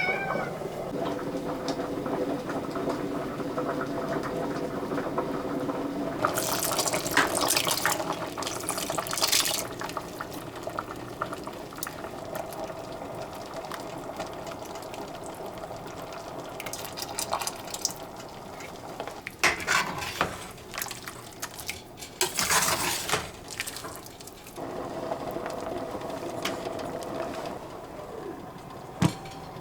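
Kitchen sounds: liquid being poured and splashing in several bursts, with clinks of dishes and a sharp click near the end, over a steady hum.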